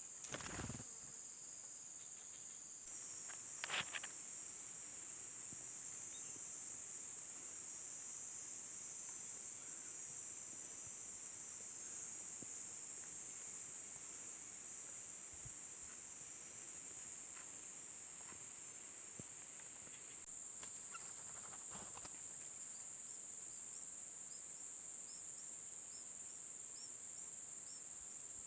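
Insects droning steadily at a high pitch, with a couple of brief knocks about half a second and four seconds in.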